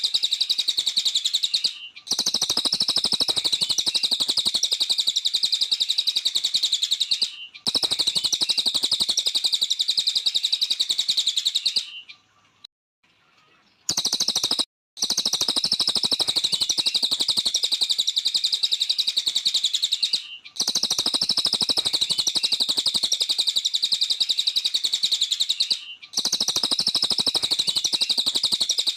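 Cililin songbird singing vigorously: a long, fast, unbroken stream of high chirping notes, broken by brief pauses every five or six seconds and a longer silence of about two seconds near the middle.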